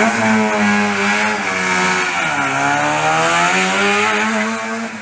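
Rally car engine pulling hard at high revs. The pitch drops about two seconds in, as at an upshift, then climbs steadily again.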